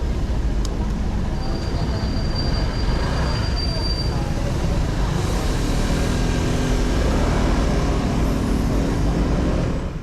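Honda 125 cc motorcycle under way in city traffic: steady engine and road noise, with a thin high whine lasting a couple of seconds about a second in.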